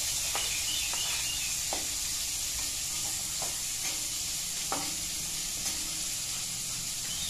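Oil sizzling steadily in a wok as salted fish, shallots and garlic fry, with a metal spatula stirring and clinking against the pan in irregular sharp ticks.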